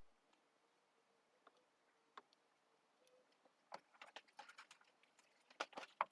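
Near silence, with a few faint scattered clicks and taps in the second half.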